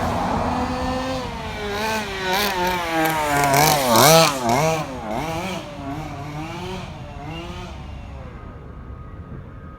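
Newly fitted 32cc Rovan two-stroke engine of a 1/5-scale Baja 5b gas RC car, being broken in, revving up and down in quick throttle blips, loudest about four seconds in, then easing off to a quieter, steady note near the end.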